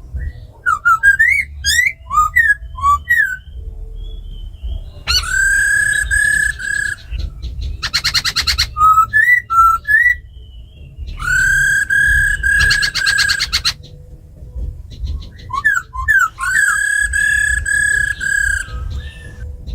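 Laughingthrushes singing: loud clear whistled phrases of rising and falling notes and long held whistles, broken by fast rattling runs of notes, the mix of a female laughingthrush's rattling 'ro khẹt' calls and a black laughingthrush's song.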